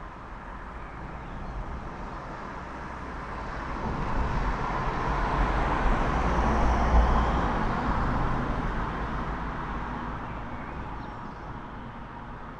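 A single road vehicle passes by on the street. The noise of its tyres and engine builds up, peaks a little past halfway, then fades away.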